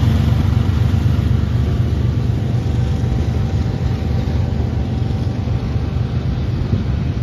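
Diesel freight locomotives, an EMD SD70MAC and a GE ES44C4, running as they pull the train away, with the freight cars' wheels rolling on the rails past close by. A steady low rumble with a faint hum in it, slowly fading.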